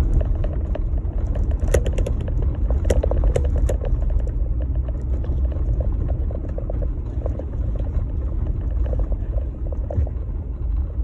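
Jeep Gladiator driving, a steady low rumble of engine and tyres, with a run of sharp clicks and knocks about two to four seconds in.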